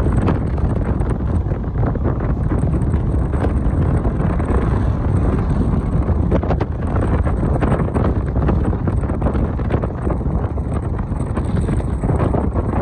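Wind buffeting the microphone: a loud, steady low rumble that flickers with the gusts.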